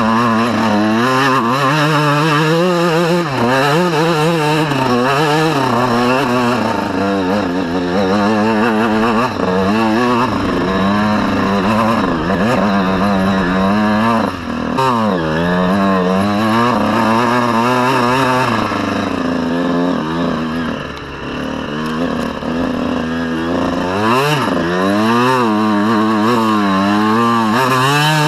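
Honda CR125 two-stroke single-cylinder dirt bike engine revving up and down constantly with the throttle as the bike is ridden off-road. There is a brief easing off the throttle about two-thirds of the way through.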